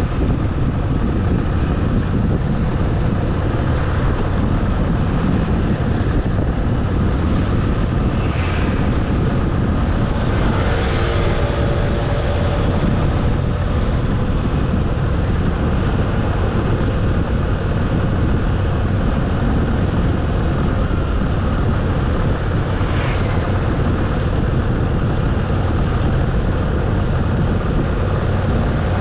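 Motorcycle riding at a steady cruise, its engine and wind rush blended into a constant loud noise, with a few brief whooshes along the way.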